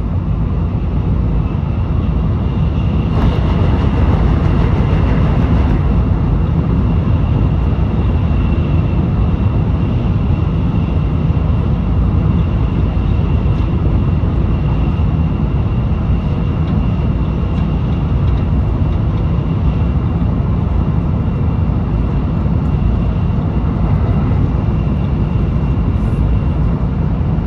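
Cabin noise of a Tokaido Shinkansen Nozomi train running at speed: a steady deep rumble with a faint, steady high whine, briefly louder about three seconds in.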